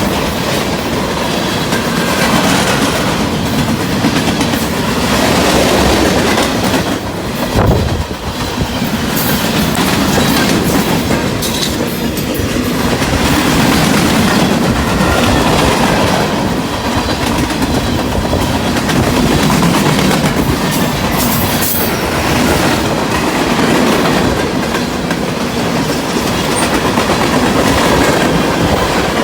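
Freight train cars rolling past on Norfolk Southern track, a steady clatter of wheels over the rails. There is one low thump about a quarter of the way in.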